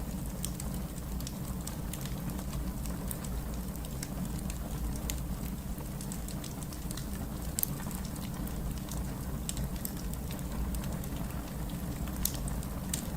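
Wood fire crackling in a fireplace: a steady low rumble with many irregular sharp pops and snaps.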